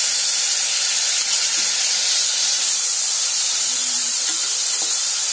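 Onions and ginger-garlic paste frying in hot oil in a pressure cooker, a steady loud sizzle, while a metal spatula stirs them through.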